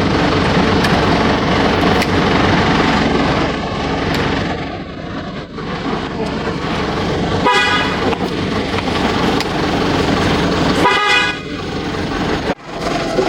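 Steady rumble of a motor vehicle running close by, with two short horn toots about three and a half seconds apart.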